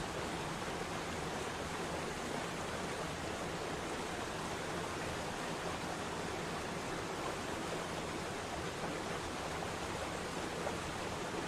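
Waterfall's falling water rushing in an even, unbroken roar.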